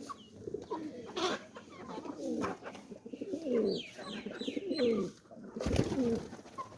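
Chickens calling: a run of low clucking calls that fall in pitch, with a few higher chirps. There is a brief thump near the end.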